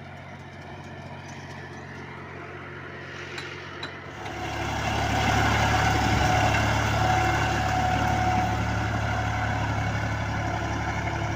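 Diesel tractor engine running steadily, then climbing to a much louder, harder-working sound about four seconds in, which holds to the end, as under heavy towing load.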